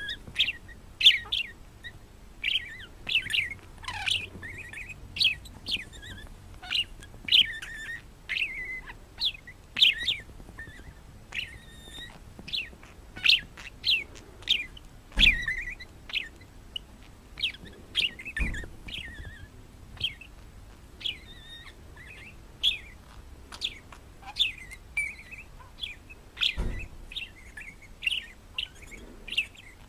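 A parrot chirping over and over in short, falling chirps, one or two a second, with a few low thumps in between.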